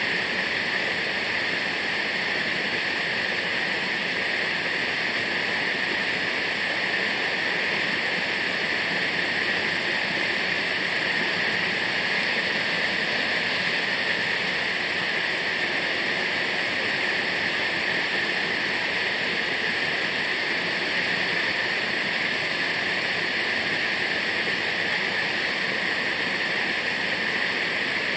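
Waterfall: water falling onto rock, a steady hiss with no breaks.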